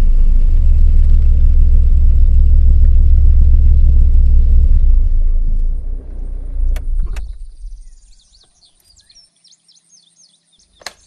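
Car engine running with a heavy low rumble, then dying away about six seconds in as the car comes to a stop. Two sharp clicks follow, then faint bird chirps and one more click near the end.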